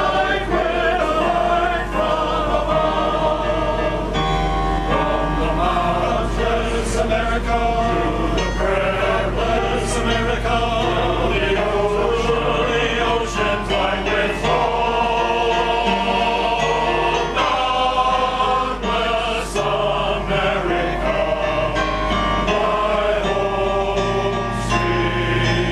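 Male chorus singing in several voice parts, with a steady low hum underneath.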